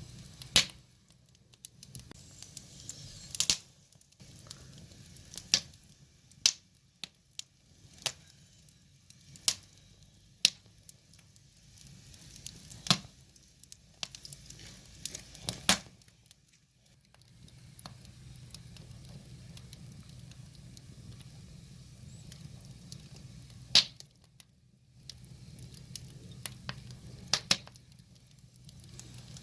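Firewood burning: sharp, irregular crackles and pops every second or so over a low, steady rush of the flames.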